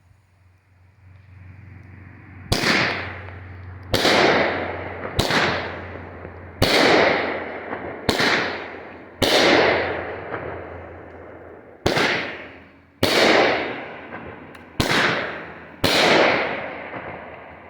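Legend Fireworks' Tequila Kiss multi-tube firework cake firing shot by shot: about ten sharp bangs spaced one to two seconds apart, each trailing off over a second or so.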